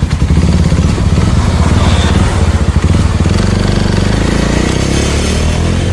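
Suzuki Thunder 250 motorcycle engine pulling away from a stop, its firing pulses loud and steady. The pitch rises through the second half as the bike accelerates.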